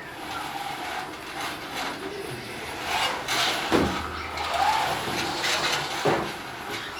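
Performers making sound effects for a soundscape piece: a mix of rushing noises with a few sliding pitch glides, the strongest about four and six seconds in.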